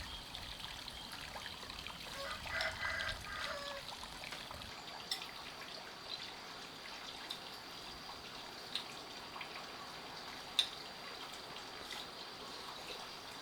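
Faint steady trickle of running water, with a few light clicks scattered through it.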